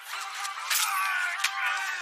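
Film soundtrack with thin, tinny club music and two sharp cracks, about a second and then a second and a half in.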